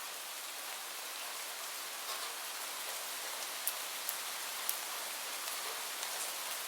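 Steady rain falling, an even hiss broken by a few sharper drop ticks about halfway through.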